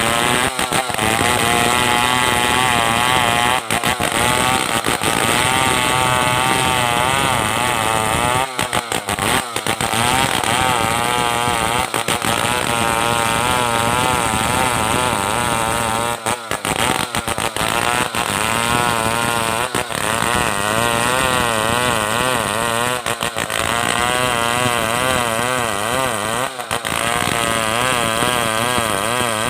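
Stihl 070 two-stroke chainsaw running at high revs while ripping a log lengthwise into planks. The engine pitch wavers up and down under the cutting load, with a few brief dips.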